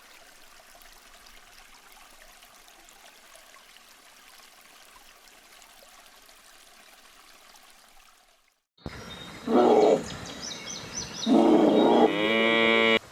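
A faint steady rushing noise for the first eight seconds or so, then a cut to two loud calls from a large mammal, the second longer and sliding in pitch near its end.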